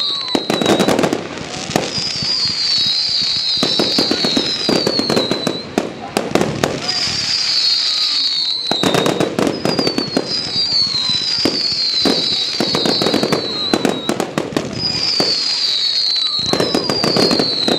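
Fireworks display: a dense run of bangs and crackling reports, with shrill whistles that fall in pitch repeating every couple of seconds.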